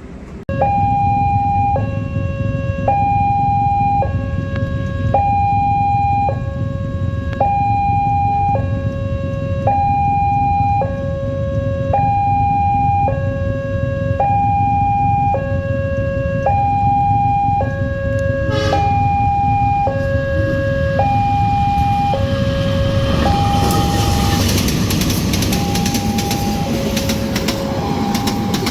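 Railway level crossing warning alarm sounding a high and a low tone in turn, each held for under a second, over and over. From about two-thirds of the way in, the rushing rumble of a passing train builds beneath it.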